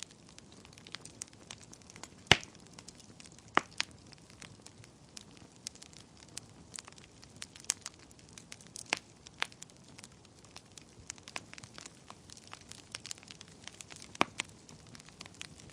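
Wood fire crackling in a fireplace: a soft steady hiss with irregular sharp snaps and pops, three louder pops standing out, about two seconds in, near four seconds, and near the end.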